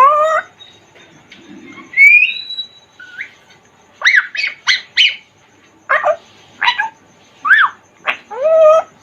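African grey parrot vocalising in short, loud calls. About two seconds in it gives a rising whistle that levels off into a held note. From about four seconds on it makes a quick run of brief calls that slide up and down in pitch.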